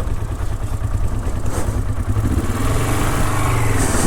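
Honda CL450's parallel-twin engine running at low revs under light throttle, the pitch rising about two seconds in as it picks up revs.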